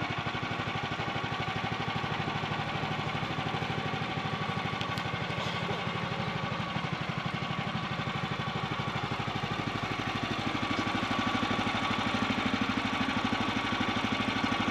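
Portable sawmill's gas engine running steadily with an even, rhythmic throb, growing a little louder about ten seconds in.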